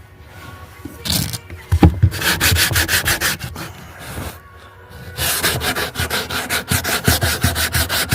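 Sandpaper being worked back and forth by hand over the boat's wooden trim, rasping in fast, even strokes at about five a second, in two spells with a short pause between them.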